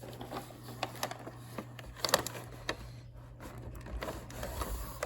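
Light handling noise, scattered clicks and rustles, with a cluster of sharper clicks about two seconds in, over a steady low hum.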